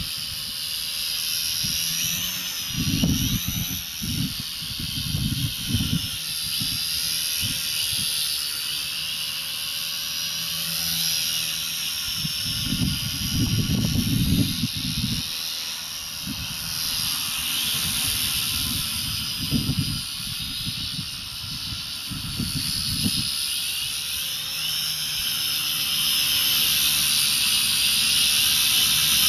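Electric RC coaxial helicopter with a 150-watt brushless motor, in flight: a steady high whine and hiss from motor and rotors, its pitch wavering up and down. Several bursts of low rumble break in, the longest about halfway through.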